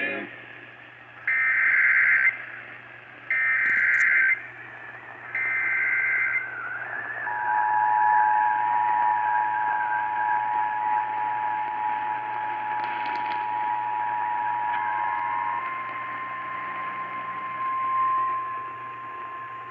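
Emergency Alert System broadcast on weather radio: three short, harsh digital data bursts of the SAME header about two seconds apart, then the steady two-tone attention alarm. Near the end a single steady alert tone joins in, all over radio hiss. This is the alert that precedes a new tornado warning.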